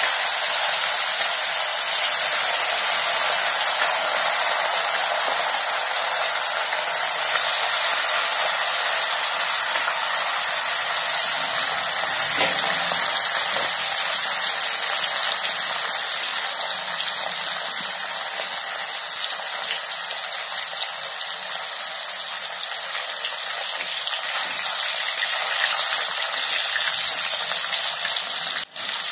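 Pieces of spice-marinated chicken tikka coated in gram flour sizzling steadily in hot oil in an aluminium kadai, easing a little in the second half.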